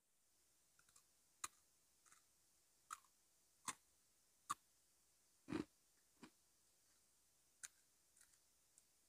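Crisp biscuit sticks crunching as they are bitten and chewed: a string of sharp, irregular crunches, about eight, one of them near the middle lower and longer than the rest.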